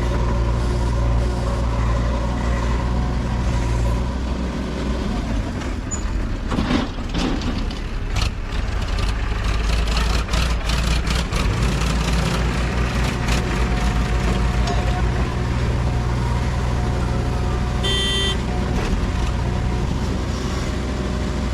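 Diesel engine of a JCB 3DX backhoe loader running steadily under work, with a stretch of clatter and knocks about a third of the way in and a short high-pitched tone near the end.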